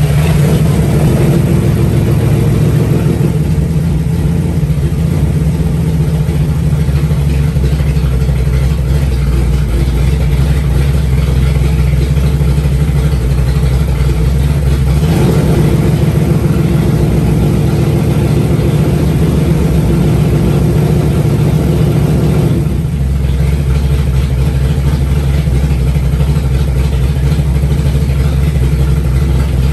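Freshly built stroked 360 V8 engine running steadily on its first start-up, with a brief change in its note about halfway through and another about two-thirds of the way in.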